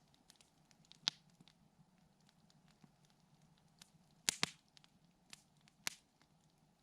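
Campfire crackling: burning wood gives sparse, sharp pops and snaps. The loudest is a quick double pop about four seconds in.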